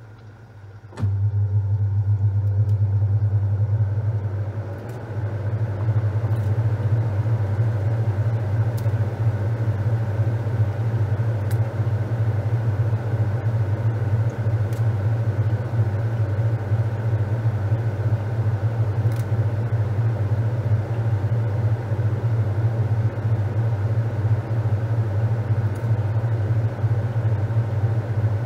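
Top-loading washing machine washing a load of towels: its motor starts about a second in with a loud, steady low hum, dips briefly around five seconds in, then runs on steadily.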